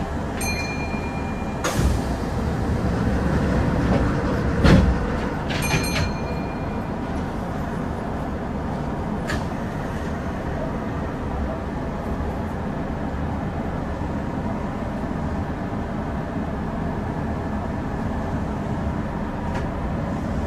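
Kintetsu 8000 series electric train running with a steady rumble. A few sharp clacks come in the first ten seconds, the loudest about five seconds in, some with a brief metallic ring.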